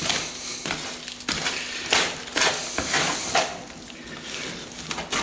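Trowel scraping and crunching through a gritty render mix of sand and plaster being stirred to thicken it, in a run of irregular strokes.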